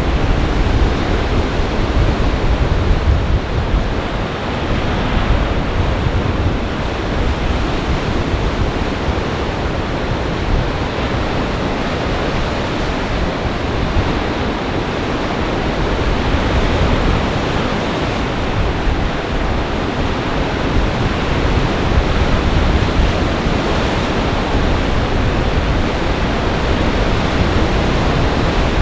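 Storm surf on Lake Michigan in a gale: a steady, loud wash of waves under gale-force wind, with a low wind rumble on the microphone.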